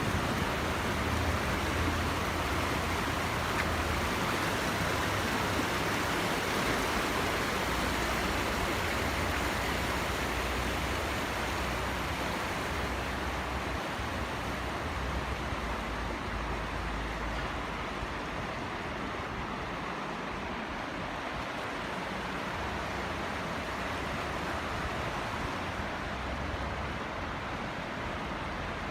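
Water rushing steadily over a small waterfall, growing a little quieter and duller after about a dozen seconds.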